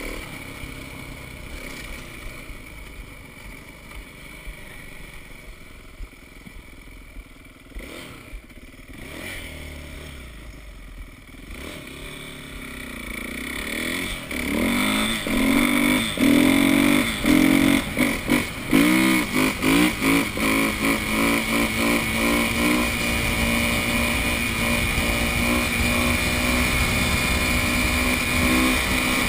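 Four-stroke dirt bike engine, faint for the first half, then growing loud about halfway through. It revs up and down several times in quick succession, then settles into a steady loud drone.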